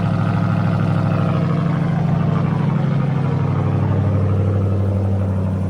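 Ram TRX's supercharged 6.2-litre V8 idling steadily through a Borla ATAK cat-back exhaust shortly after a cold start, a deep, even exhaust rumble.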